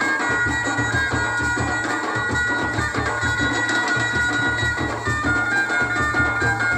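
Traditional folk music: a reedy wind instrument holds long high notes over a steady, driving drum beat.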